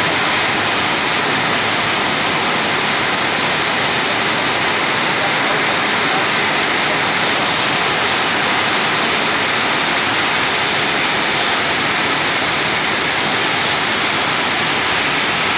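Heavy downpour: a loud, steady hiss of rain falling on a wet road.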